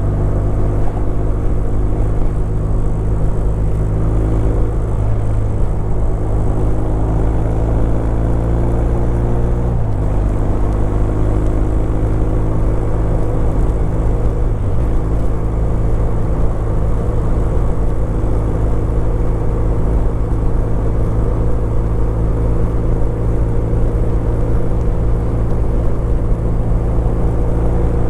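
Kawasaki W800's air-cooled parallel-twin engine running steadily on the move, heard on the onboard microphone with little wind noise. Its note dips briefly about ten seconds in and again near fifteen seconds.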